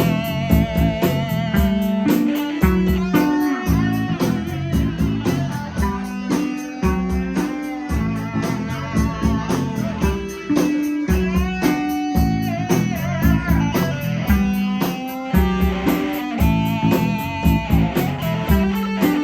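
Live rock band playing: an electric guitar lead with held, wavering notes over bass guitar and a steady drum beat.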